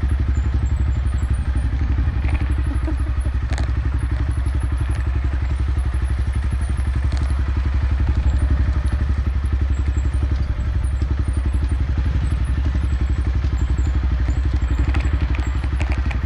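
Motorcycle engine running steadily at low speed on a rough dirt trail, with a few short knocks and clatter from the ride.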